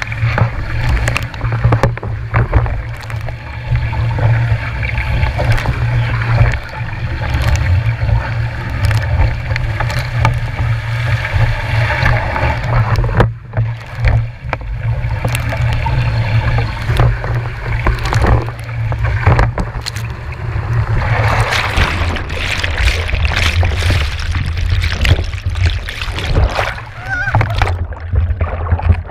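Strong wind buffeting the microphone as a heavy low rumble, with water splashing and sloshing around a small boat in high wind, and frequent short knocks and cracks.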